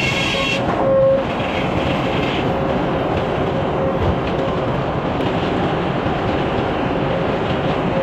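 Sawmill machinery running steadily with a dense rumble and a high whine that comes and goes.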